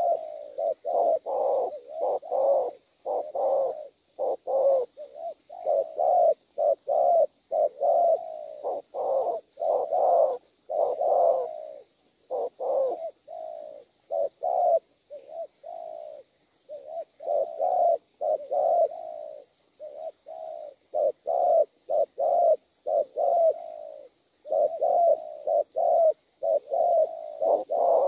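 Wild-caught spotted dove (cu gáy) cooing hard, in a fast run of short, repeated coos, several a second, with a few brief pauses.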